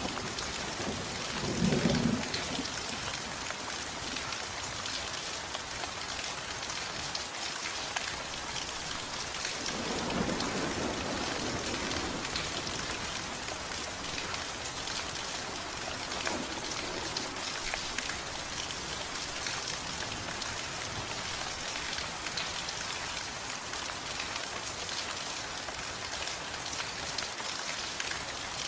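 Steady heavy rain falling, with low rolls of thunder: one about two seconds in, a longer one about ten seconds in, and a fainter one later.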